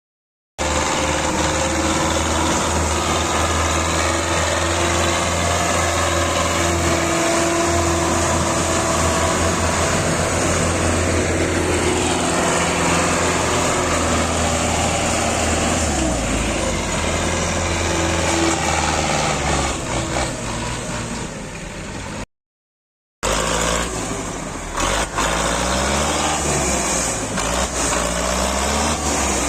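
Tractor engine running under load with a steady low drone. It cuts to silence briefly a little after twenty seconds, then returns with its pitch rising and falling as the engine revs.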